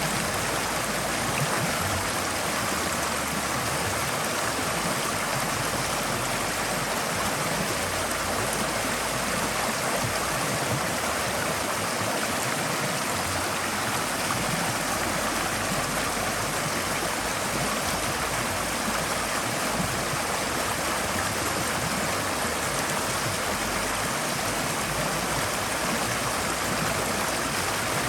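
Forest stream flowing over rocks: a steady, continuous rush and babble of water.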